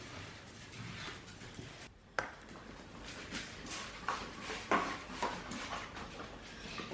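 Light knocks and clicks of household items being handled and set down, a few at a time, clustered about four to five seconds in.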